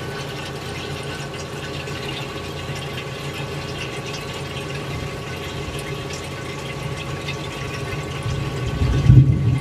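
General Electric CJ-1-C16 refrigerator's compressor running with a steady hum under heavy load, while liquid refrigerant rushes through the float valve into the warm evaporator. A low rumble swells near the end.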